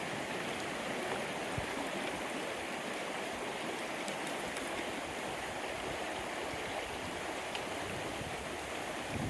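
Small wild stream running steadily, an even rush of water.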